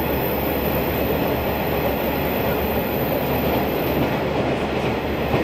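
Train running at speed through a tunnel, heard from inside the passenger car: a steady rumble of wheels on rail, with a few faint rail-joint clicks near the end.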